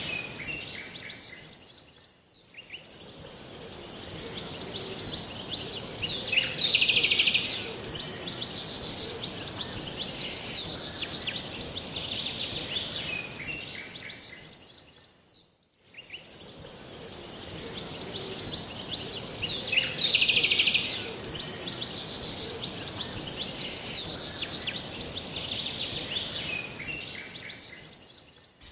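Several birds chirping and calling over a steady high hiss, with one louder, dense trill about seven seconds in and again about twenty seconds in. The sound fades out and back in twice, at about two and sixteen seconds, as the same stretch of recording repeats.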